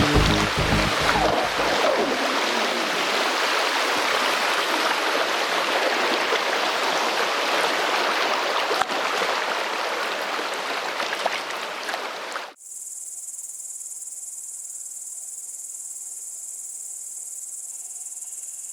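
Rushing river water, a steady hiss, which cuts off abruptly about two-thirds of the way through. After that, insects chirr steadily at a high pitch.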